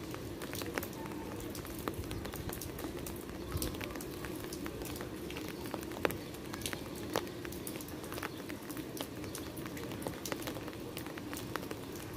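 Steady rain falling, with many individual drops tapping sharply and irregularly on hard wet stone surfaces.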